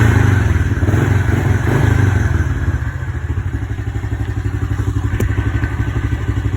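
Dirt bike engine just started, running louder for the first couple of seconds, then settling into a steady, rapidly pulsing idle. A single sharp click sounds about five seconds in.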